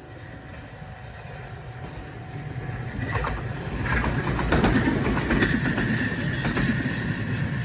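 A train approaching and passing close by, growing louder to a peak about halfway through and then fading a little, with a run of clacks from its wheels as it goes by.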